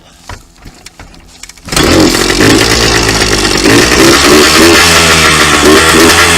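Two-stroke dirt bike engine catching suddenly a little under two seconds in, then running loud and revving.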